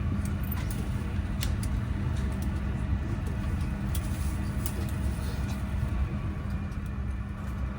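Steady low hum and rush of air inside a parked Airbus A350-900's passenger cabin during boarding, with a few faint clicks.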